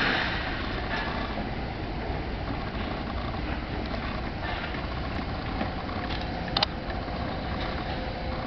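Steady outdoor background noise with a low rumble, like distant road traffic, and one short sharp click about two-thirds of the way in.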